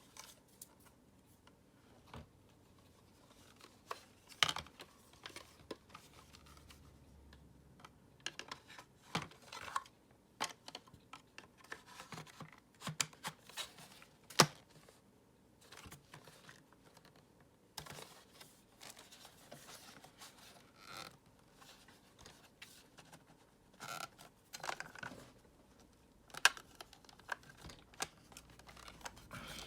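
Irregular clicks, taps and scrapes of plastic vacuum-cleaner parts being handled and worked apart, with a few sharper snaps.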